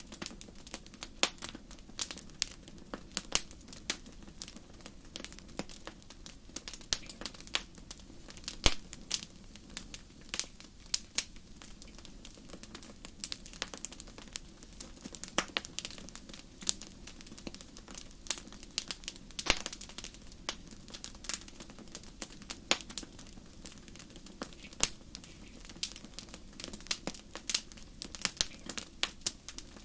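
Wood fire burning in a fireplace, crackling with irregular sharp pops and snaps several times a second over a low steady rush of the flames; one pop about a third of the way in is the loudest.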